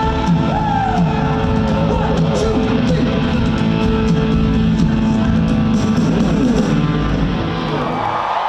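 Live rock band music with electric guitar, a song playing out to its end; about eight seconds in the music stops and the crowd starts cheering.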